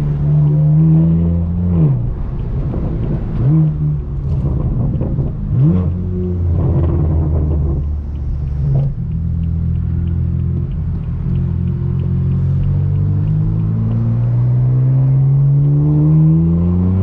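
Straight-piped BMW M4 F82's twin-turbo inline-six exhaust, loud, with revs dipping and climbing a few times in the first seconds, then holding steady, then rising slowly over the last five seconds before a sudden drop like a gear change near the end.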